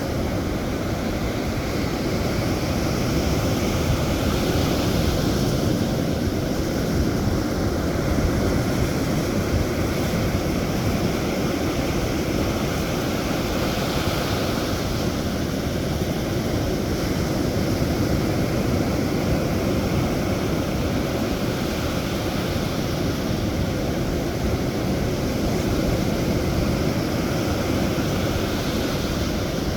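Sea waves and wind: a continuous rush of surf, heaviest in the low end, swelling gently a few seconds in and again near the end.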